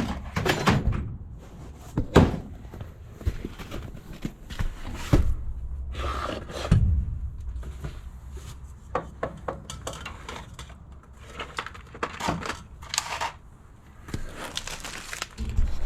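Parts and packaging being handled and unpacked from a cardboard box on a table: irregular knocks, thumps and rustling.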